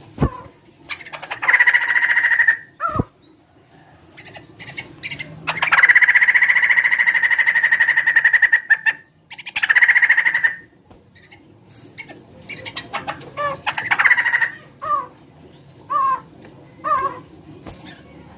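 Laughingthrush (poksay) calling loudly in full song: a few short notes, then long, drawn-out harsh calls, the longest about three seconds, and a quick run of short notes near the end.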